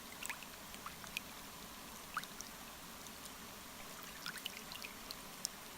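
Faint steady electrical hum from a DJI Osmo Mobile gimbal's motors, a thin whine that taints the recording, under quiet lakeside ambience with scattered small trickling ticks of water.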